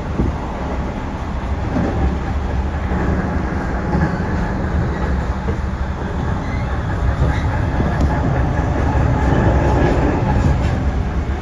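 JR Central 311 series electric multiple unit running at speed, heard from inside the car: a steady low rumble of wheels on rail, growing a little louder near the end.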